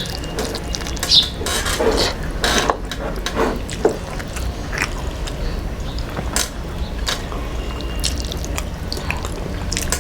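Close-up eating sounds: chewing, with scattered small clicks and taps of food and dishes over a steady low hum.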